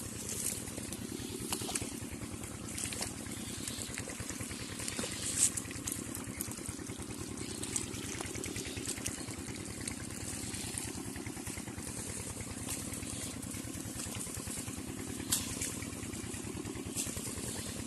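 10 HP diesel engine running steadily with a fast, even beat, driving an irrigation water pump, with water splashing and a few sharp ticks over it.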